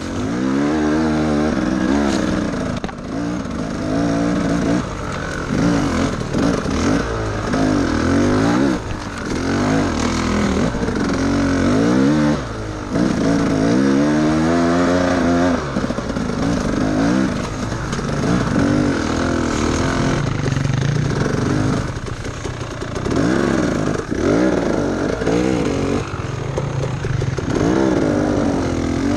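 Dirt bike engine labouring up a steep climb in first gear, revving up and falling back over and over as the bald rear tyre spins for grip.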